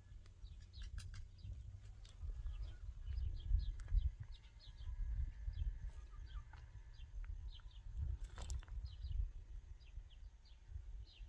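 Birds chirping over and over in short, high notes, over a low rumble, with a couple of sharp knocks, one about a second in and one near the end.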